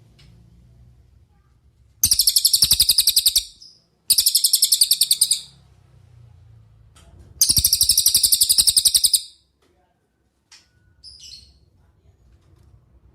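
Cililin singing: three bursts of a fast trill of rapidly repeated high notes, each lasting about one and a half seconds, followed near the end by a couple of short, faint calls.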